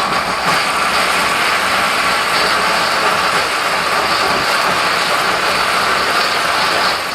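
Countertop blender running loud and steady, chopping a sub sandwich into a drink.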